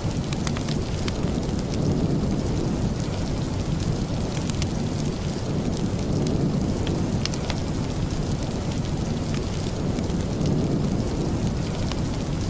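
Steady rain with a deep, continuous rumble, dotted with scattered sharp clicks and ticks.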